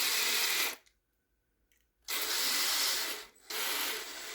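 Small power screwdriver running in short bursts, driving M2 screws into 3D-printed plastic frame parts. One burst stops just under a second in, a second runs for about a second, and a quieter third follows near the end.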